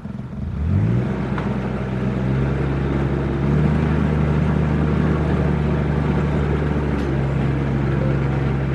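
Narrowboat engine speeding up about half a second in, then running steadily under throttle.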